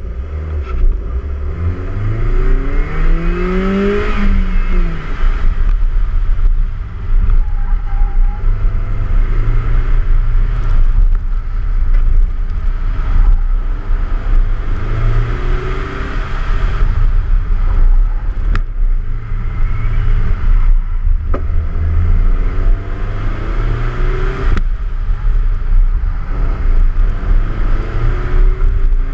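BMW Z3 roadster's engine revving hard through an autocross run: the pitch climbs steeply for the first few seconds off the start, then rises and falls again and again as it accelerates between cones and lifts for corners. A heavy wind rumble on the car-mounted microphone runs underneath.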